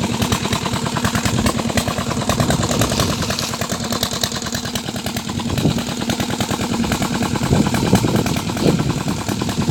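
Old Petter diesel engine running steadily, pumping water from a tubewell, with a fast, even chugging beat.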